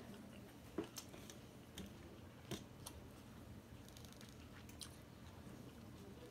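Faint chewing and mouth sounds of a person eating rice and greens by hand, with the soft squish and scrape of fingers mixing rice on a stainless-steel plate. A few sharp clicks stand out, the loudest about a second in and again about two and a half seconds in.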